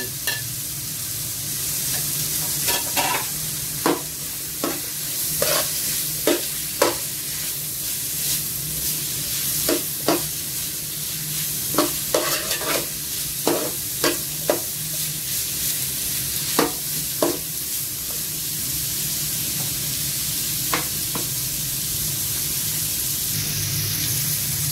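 Sliced onions, garlic, ginger and bay leaves frying in oil in a large metal stockpot, a steady sizzle, with a stirring utensil knocking and scraping against the pot, the knocks frequent through the first two-thirds and then stopping while the sizzle goes on.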